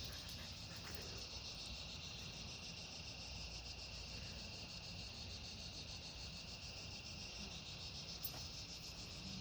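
Crickets chirping: a faint, steady, high-pitched chorus.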